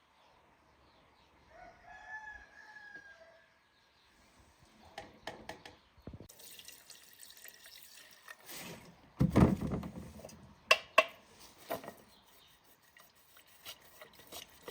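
A rooster crows once about two seconds in, followed by a run of knocks and clatters, the loudest a heavy knock about nine seconds in.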